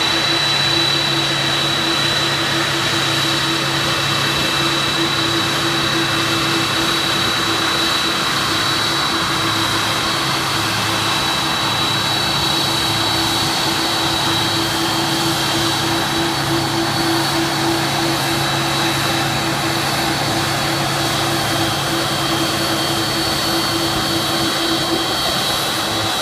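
Air Force One's Boeing 747 jet engines running steadily at low power while taxiing: an even rushing noise with a steady high-pitched whine on top, the whine dropping slightly in pitch about three-quarters of the way through.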